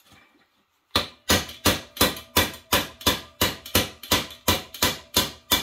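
Steady hammer blows, about three a second, starting about a second in, struck at the stuck piston of a seized Honda engine to drive it free. Each blow is sharp and leaves a short metallic ring.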